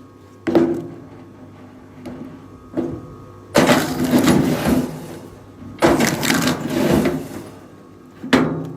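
Wood cracking and crashing: a series of sudden loud breaks, each trailing into a second or two of crackling and splintering. The longest and loudest comes about three and a half seconds in, and another about six seconds in.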